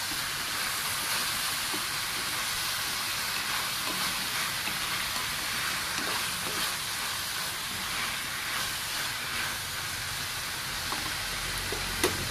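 Food frying in hot oil in a pan, a steady sizzle, with a few light clicks and one sharp click near the end.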